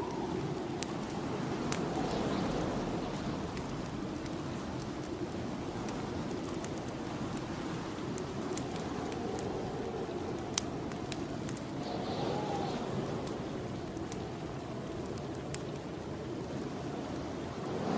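Snowstorm wind blowing in slow swells and gusts, with a wood fire crackling in scattered sharp pops.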